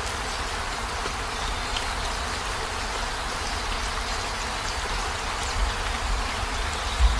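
Heavy rain falling steadily on a van, a continuous hiss with scattered small drip ticks over a low rumble. A single low thump comes near the end.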